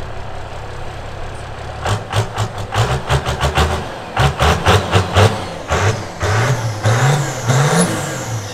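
A car engine running steadily, then revved in quick repeated blips from about two seconds in, its pitch rising and falling with each blip.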